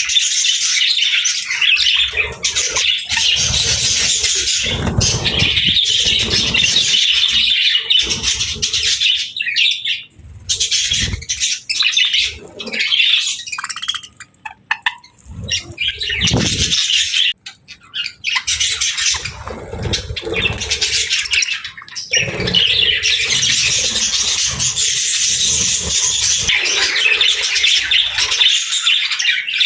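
Several budgerigars chattering and chirping in a dense, continuous warble, with occasional low thumps. The chatter thins out briefly about a third of the way in and again past the middle.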